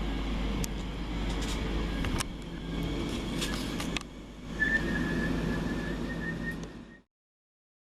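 A train at a railway platform: a steady rumble with a few sharp clicks, joined about halfway through by a steady high-pitched whine. The sound cuts off suddenly about seven seconds in.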